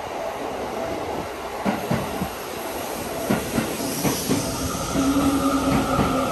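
Seibu 30000-series electric train heard from inside, wheels clicking over rail joints. A steady high tone sets in about five seconds in.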